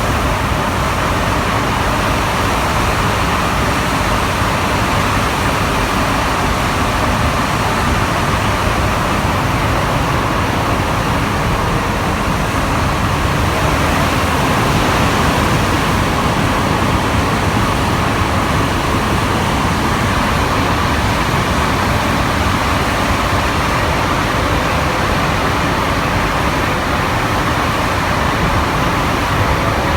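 Santiago Metro NS-93 rubber-tyred train running between stations, heard from on board: a steady, loud rolling and running noise from the tyres and drive, with a faint steady motor tone underneath.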